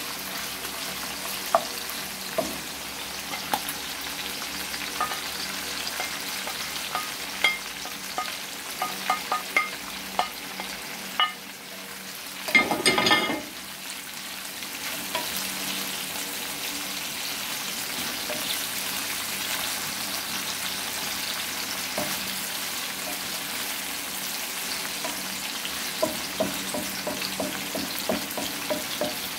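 Smoked red herring frying with onion, green pepper and scallion in a non-stick frying pan: steady sizzling, with a wooden spatula stirring and clicking against the pan. A short loud burst comes about halfway through.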